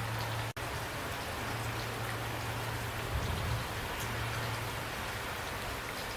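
Steady rain falling, with scattered drops ticking on a surface. The sound cuts out for an instant about half a second in.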